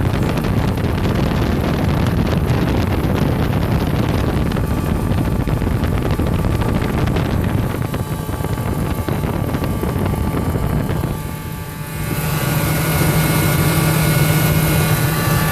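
The 5.4-litre V8 of a 2001 Ford F-150 running, heard up close, carrying the squeaky noise whose source the owner cannot trace. The sound dips briefly about eleven seconds in, then comes back steadier, with a stronger low hum.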